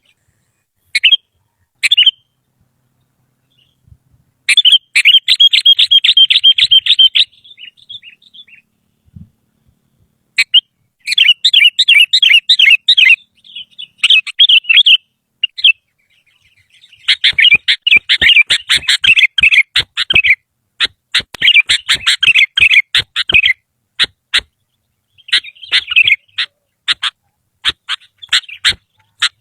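Sooty-headed bulbul (kutilang) singing in bursts of rapid, chattering phrases with pauses between them. The later phrases come mixed with short, sharp clicks.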